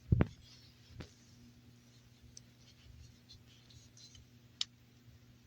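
A single knock just after the start, a softer one about a second in, then a few faint, sharp clicks, over a faint steady low hum.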